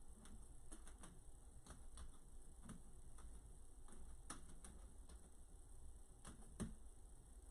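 Faint light clicks at an uneven pace, roughly two a second, one a little louder near the end, over quiet room tone.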